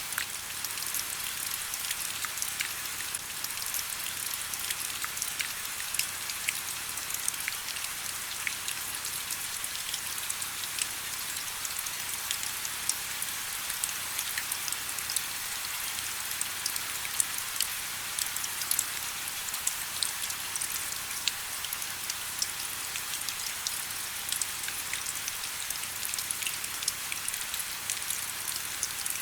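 Steady rain with a continuous hiss and many small, sharp drop ticks pattering on a surface.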